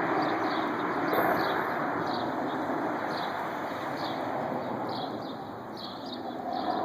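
Helicopter flying low overhead: steady rotor chop and engine noise, easing off a little in the second half. Birds chirp in the background.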